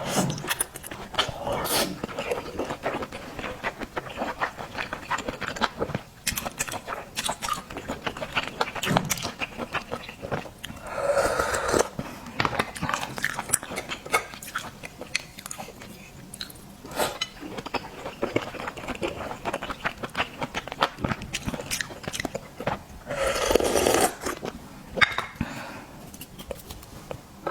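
Close-miked mukbang eating sounds of a person chewing seafood: continual wet clicks and smacks of chewing and biting. Two louder, longer noisy sounds come about halfway through and near the end.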